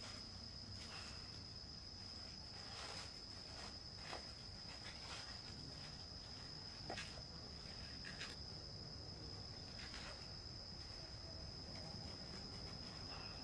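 Steady high-pitched insect chirring that holds one tone throughout, with scattered faint rustles and clicks.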